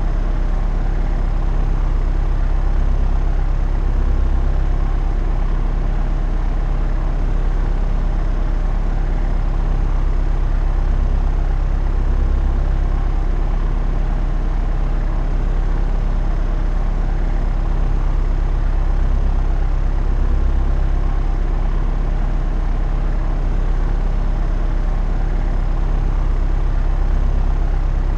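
Propeller aeroplane in flight: a steady, deep drone of engine and propeller, even throughout with slight slow swells in loudness.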